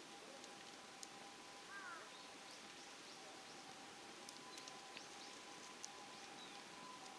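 Faint outdoor quiet with a few small bird chirps and occasional faint sharp crackles from a wood campfire, over a low steady hiss and a thin steady tone.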